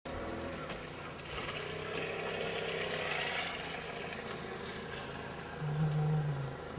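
A motor running steadily over a constant hiss, its low hum growing louder for about a second near the end.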